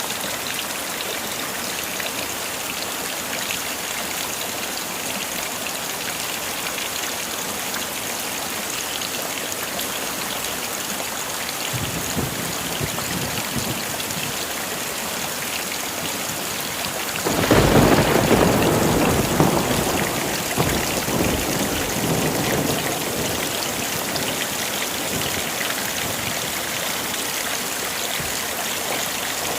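Heavy rain falling steadily, with a faint rumble of thunder building about a third of the way in and a loud thunderclap just past the middle that rolls away over several seconds.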